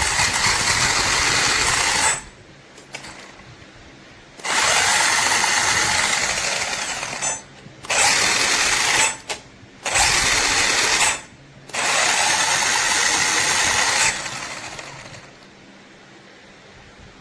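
DEERC H16R brushless RC car's motor and gear drivetrain whirring in about five throttle bursts of one to three seconds each, with short pauses between, spinning down near the end.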